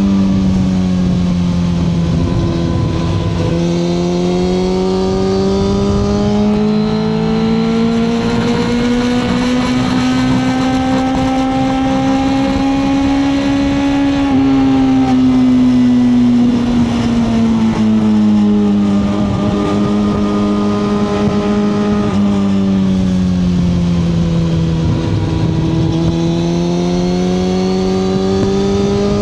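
Suzuki GSX-R1000R's inline-four engine pulling under way, its pitch rising and falling with the throttle: it dips at first, climbs slowly for about ten seconds, drops around the middle, eases down further, then rises again near the end.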